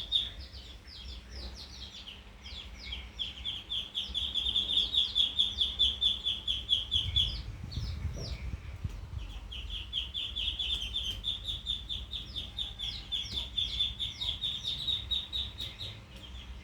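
A baby bird chick peeping rapidly and continuously in high, short, falling notes, several a second. The peeping breaks off for a couple of seconds about halfway through, with a low rumble and a soft thump, then starts again.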